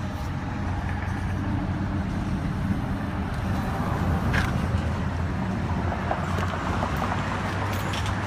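BMW 6 Series Convertible's engine idling in Park, a steady low hum.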